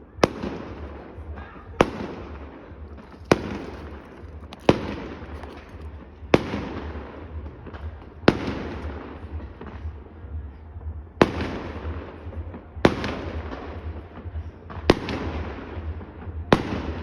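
Fireworks going off: a string of sharp bangs, about ten of them, coming every one and a half to two seconds with one longer pause midway. Each bang is followed by a fading tail of noise, over a steady low rumble.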